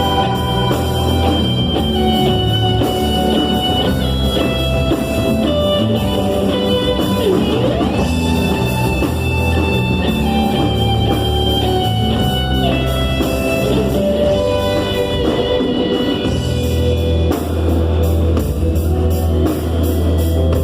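A church worship band plays an instrumental passage with guitar, drum kit and bass: held chords and melody lines over a steady beat, without singing.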